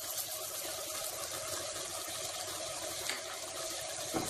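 Onions and tomatoes frying in oil in a pot, a steady sizzle, with a light knock of the wooden spatula near the end.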